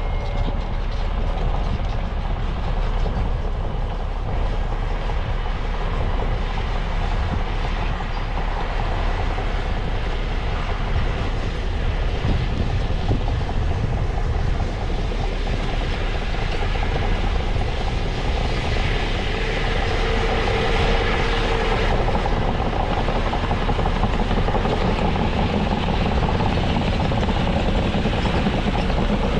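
Heavy construction machine's diesel engine running steadily, with a continuous dense rumble.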